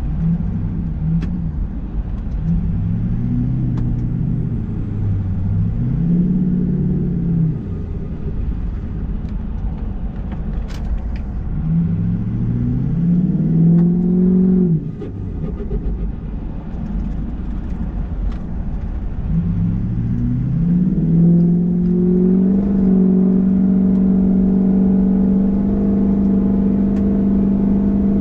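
Ford 6.0 Powerstroke V8 turbodiesel under way, revs climbing and falling through several pulls. The sound drops off suddenly about halfway through, then climbs again and holds steady at higher revs near the end.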